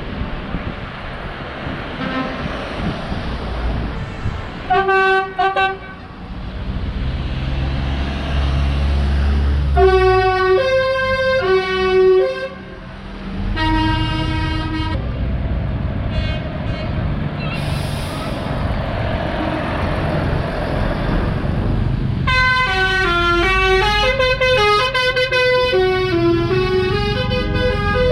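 Vehicle horns tooting in several bursts over road traffic and engine rumble. From about 22 s to the end a horn plays a long run of changing notes.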